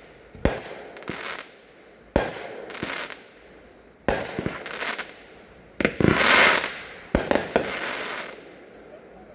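Sunwing's 16-shot Camo Kaboom firework cake firing shot by shot: about five sharp bangs, one every one and a half to two seconds, each followed by crackling, with a longer loud stretch of crackle about six seconds in.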